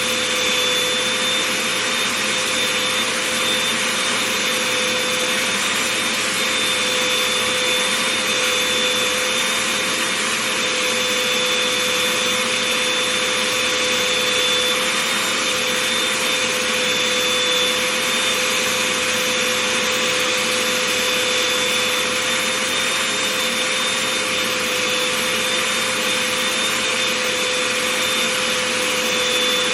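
Vacuum cleaner running steadily with an even motor whine, its nozzle drawn over fuzzy slippers.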